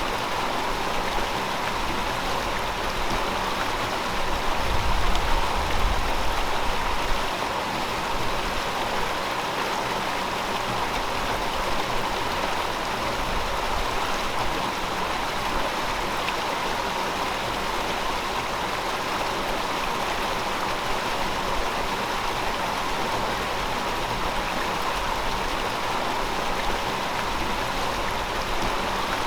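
A river flowing steadily, a continuous even wash of water noise that swells briefly about five seconds in.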